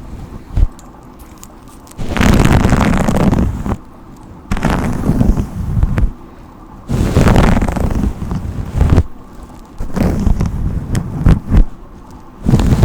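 Slow brush strokes close to the microphone: about five long swishes, one every two and a half seconds or so.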